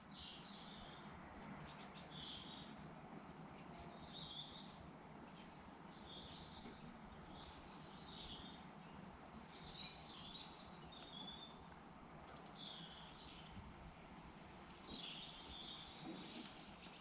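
Faint outdoor birdsong: several birds chirping and trilling in quick, repeated phrases over a steady low background hiss.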